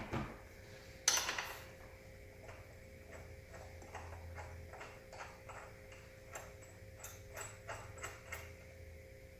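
Chair assembly hardware being handled: a knock at the start and a metallic clatter about a second in, then a run of light, irregular ticks as bolts are threaded into the backrest bracket by hand or with a hex key.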